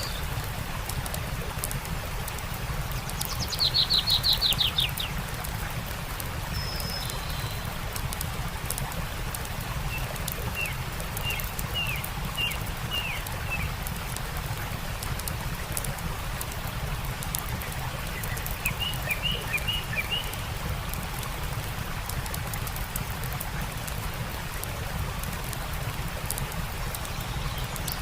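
A stream's steady rush with a campfire crackling and popping throughout, and songbirds singing over it: a loud fast trill about four seconds in, then two runs of short falling chirps, around ten seconds in and again near twenty.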